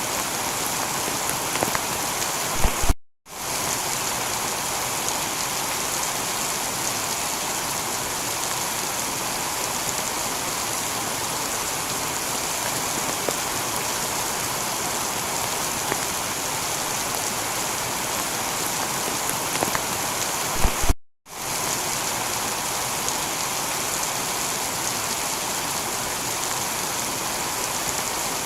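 Steady heavy rain falling on a tiled roof, a dense even hiss of drops. Twice, about 18 seconds apart, a short low thump is followed by a split-second gap of silence before the rain resumes.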